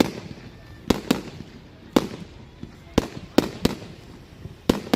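Fireworks exploding: about eight sharp bangs at uneven intervals, some in quick pairs, each trailing off in a short echo.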